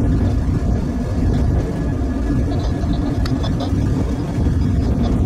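Steady low rumble of a light locomotive running along the line, heard from the cab, with a faint steady whine and a few small clicks.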